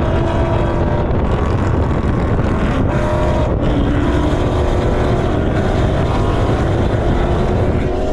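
Motor vehicle engine running steadily with a dense low rumble.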